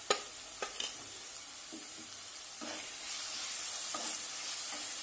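Tomato and spice masala sizzling in hot oil in a kadhai while a spatula stirs it. Steady sizzle with a few sharp scrapes and taps of the spatula against the pan.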